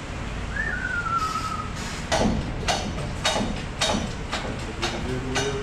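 A short whistle that falls in pitch, followed by a run of sharp knocks or clicks about every half second.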